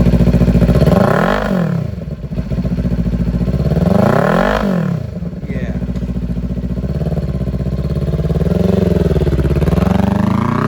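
Kawasaki Ninja 400 parallel-twin engine with an aftermarket exhaust, idling and being revved. Two quick throttle blips come about one and four seconds in, a smaller one near nine seconds, then a longer rev climbing near the end.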